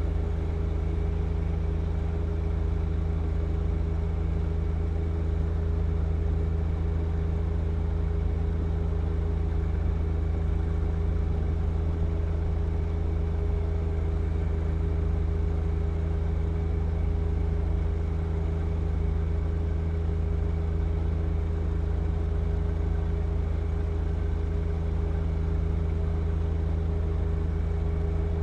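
John Deere 1025R compact tractor's three-cylinder diesel engine running at a constant speed with its snow blower, a loud, even drone that holds steady throughout.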